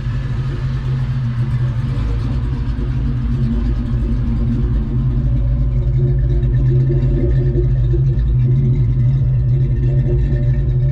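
1996 Ford Mustang GT's swapped-in 4.6-litre two-valve V8 running steadily, a low, even engine drone that grows slightly louder about halfway through.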